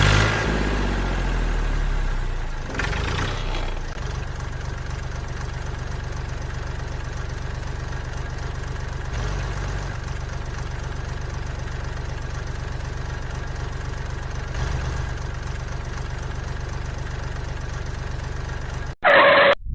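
Small tractor engine running at a steady idle with an even chugging pulse, its pitch swinging up and down in the first second. A short bright sound cuts in just before the end.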